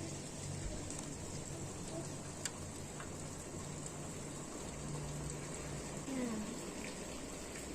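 Steady rain shower falling, with now and then a sharper tick of a single drop hitting a nearby surface.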